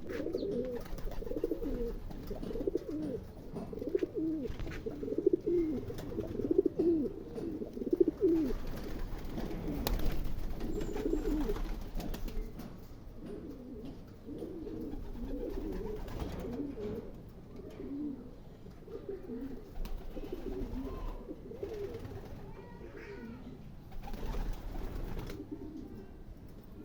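Several domestic pigeons cooing, with low warbling calls overlapping. The calls are louder and denser in the first half and softer later on.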